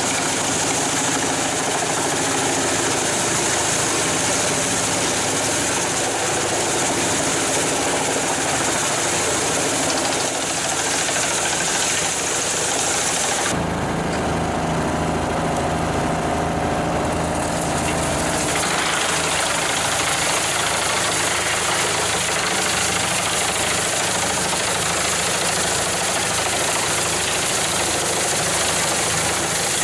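Heavy machinery engine running steadily. About 13 seconds in, the sound changes abruptly to a deeper engine sound, and it switches back about 18 seconds in.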